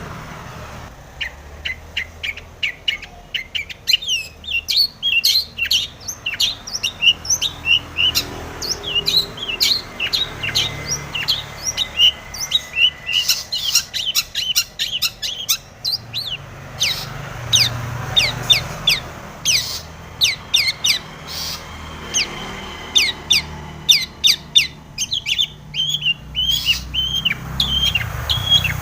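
Long-tailed shrike (cendet) singing a fast, varied, chattering song of quick rising and falling notes, with a short held whistle about midway.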